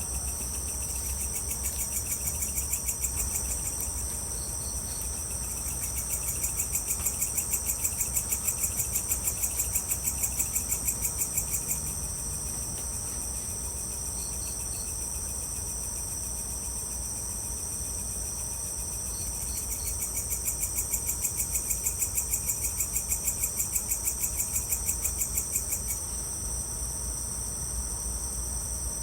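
Evening insect chorus of crickets and other insects: a steady high-pitched buzz throughout, with a louder pulsing trill of about four pulses a second that swells in three times for several seconds each, and a few short three-note chirps. A faint low rumble sits underneath.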